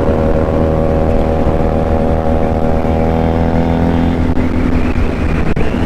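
Benelli motorcycle engine and exhaust running at a steady cruising speed, its pitch holding even.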